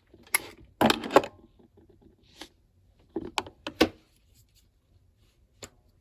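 Art supplies being handled while colouring: a few short, sharp clicks and scrapes, the loudest about a second in and again near the middle, with quiet between.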